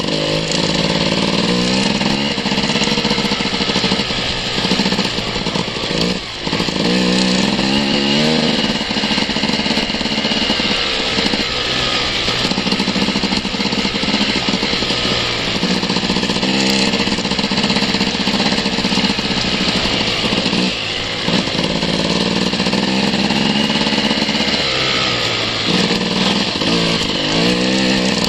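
Enduro motorcycle engine running hard, close and loud, revving up and dropping back again and again as the throttle is worked and gears change, with a brief dip about six seconds in.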